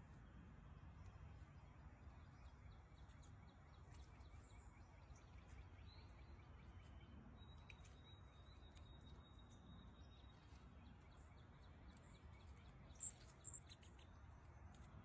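Near-silent outdoor background with faint scattered bird chirps, a thin steady high tone held for about three seconds midway, and two brief sharp high bird chirps about thirteen seconds in.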